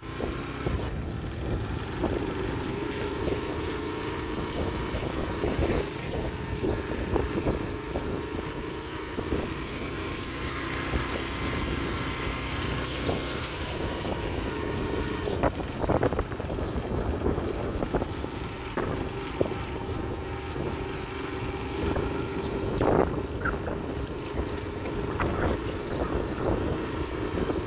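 Yamaha AG125 farm motorcycle's two-stroke single-cylinder engine running steadily while riding along a gravel track, with wind buffeting the microphone. Occasional sharp knocks stand out, loudest twice in the second half.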